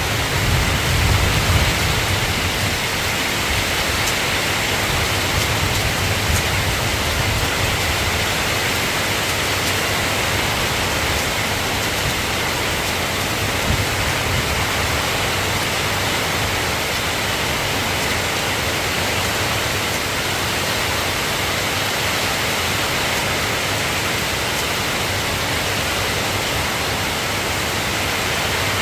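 Steady rain falling, an even hiss. A low thunder rumble fades out in the first few seconds.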